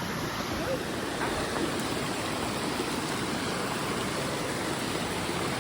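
Steady rushing of a waterfall and its creek, an even noise at a constant level.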